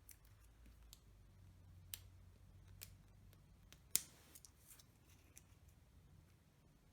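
Near silence with a few faint clicks and a brief light rustle of paper handling while a sentiment label is stuck down with foam dimensionals; the sharpest click comes about four seconds in.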